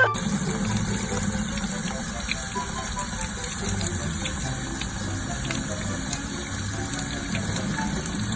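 Water running steadily, a continuous even rush.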